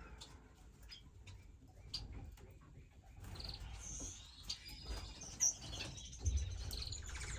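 Small finches chirping in scattered short, high calls, with a few faint clicks between them.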